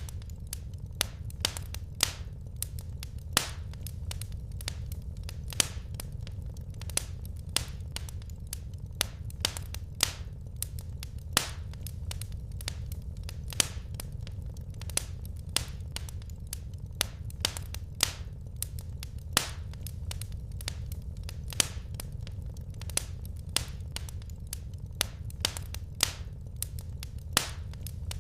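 Wood fire crackling in a fireplace: irregular sharp pops and snaps, a few each second, over a steady low rumble of the burning logs.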